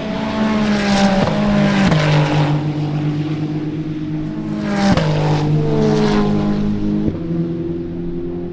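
Race car engines running hard at high revs. Their pitch steps abruptly with a crack at each gear change, about four times.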